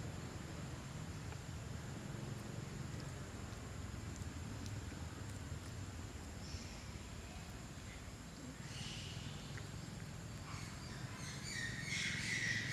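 A steady low outdoor rumble, then from about two-thirds of the way in a run of short, high-pitched squeaky animal calls, loudest near the end.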